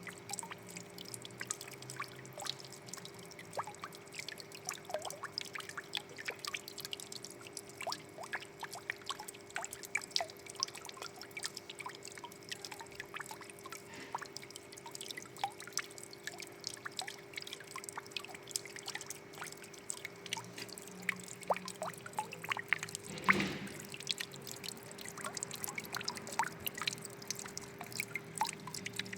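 Water trickling and dripping: a continuous patter of small drips and splashes over a faint steady hum, with one louder plop about two-thirds of the way through.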